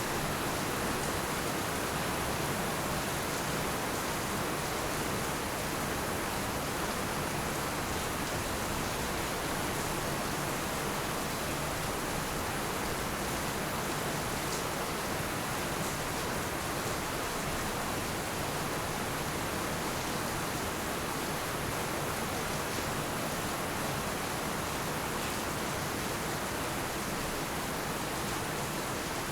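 Heavy rain falling steadily in an even, unbroken hiss, without thunder.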